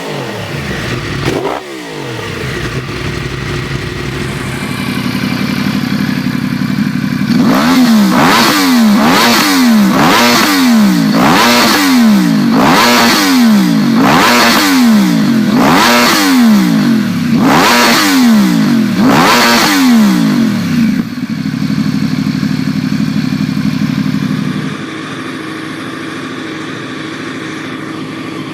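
Yamaha R1 inline-four engine idling, then revved about ten times in quick succession. Each blip rises and drops sharply before it settles back to a steady idle.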